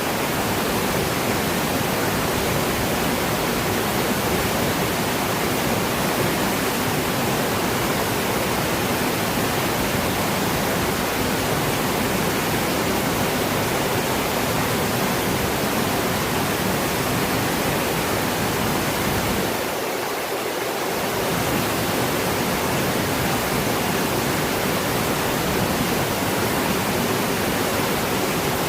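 Waterfall: a steady, dense rush of falling water. The low rumble drops away briefly about twenty seconds in, then returns.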